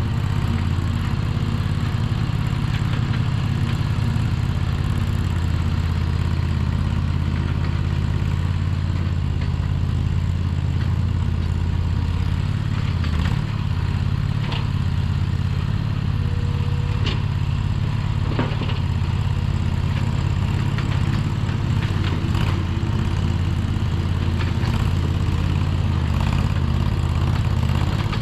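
Mini skid steer engine running steadily, with a few short metallic clanks between about 13 and 19 seconds in.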